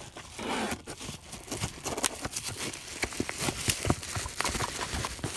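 Cardboard box and packaging being opened and handled: rustling with a quick run of small clicks and taps.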